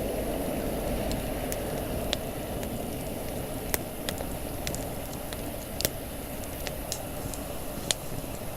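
Wood campfire crackling: irregular sharp pops, the loudest about four, six and eight seconds in, over a steady low rush.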